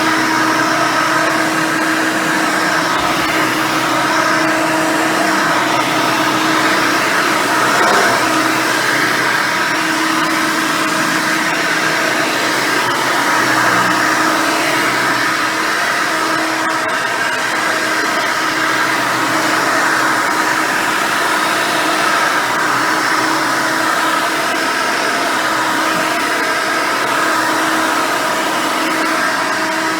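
Hoover Elite 600 upright vacuum with a single-row brush roll running steadily while vacuuming, its motor giving a steady hum with a higher whine over it.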